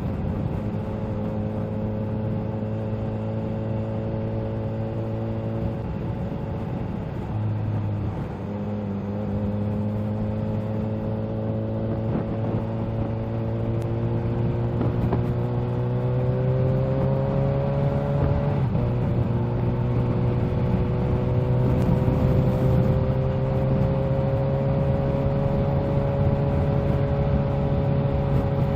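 Kawasaki Z H2 motorcycle's supercharged inline-four engine running under way at a steady cruise. Its pitch climbs slowly as the bike gathers speed, with a gear change about eight seconds in and another a little under two-thirds of the way through.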